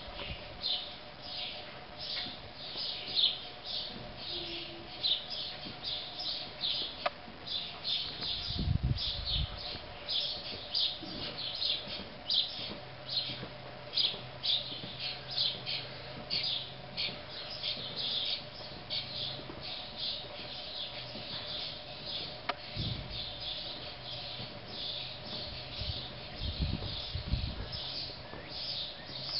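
Small birds chirping busily, with short high chirps coming several a second, and a few brief low rumbles.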